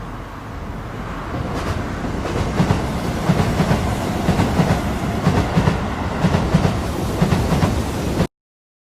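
Train running on rails, its wheels clattering over the rail joints in a rhythmic clickety-clack. The rumble builds over the first couple of seconds, then cuts off abruptly near the end.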